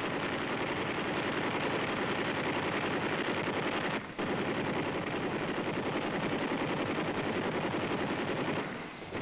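A UH-1B helicopter's four M60 7.62 mm machine guns (the XM6 kit) firing in long sustained bursts, with a brief pause about four seconds in.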